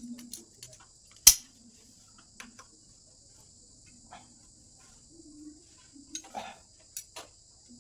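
Scattered clicks and light metallic taps of tools and fittings being handled, with one sharp, loud knock about a second in, over a steady high-pitched hiss.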